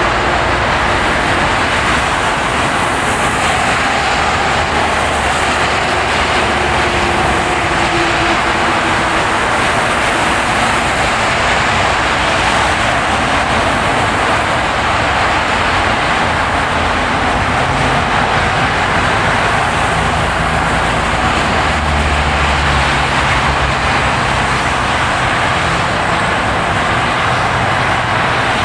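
Steady road noise from a car driving on a plowed, snowy road: a constant tyre roar with a low engine hum that grows more noticeable in the second half.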